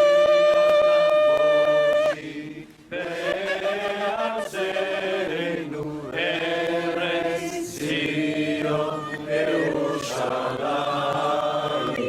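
A shofar blast: one ram's-horn note that swoops up into a steady, loud tone for about two seconds and then breaks off. About a second later several voices begin chanting together and carry on to the end.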